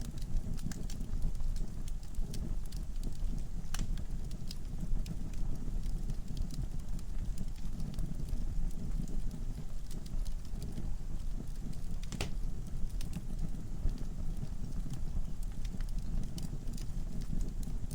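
Wood fire burning in a fireplace: a steady low rumble of flames with irregular crackles and pops from the burning logs, one sharp pop standing out about two-thirds of the way through.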